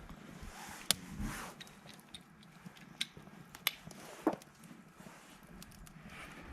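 Wood campfire crackling: a faint steady hiss with a handful of sharp, separate pops.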